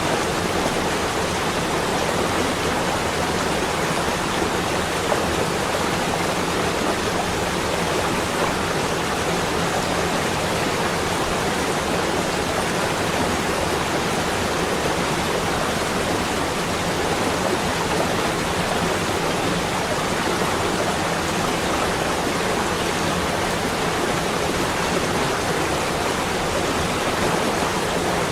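Steady, even rushing noise with no breaks or separate events, the kind heard from a stream, a snowstorm wind or falling rain.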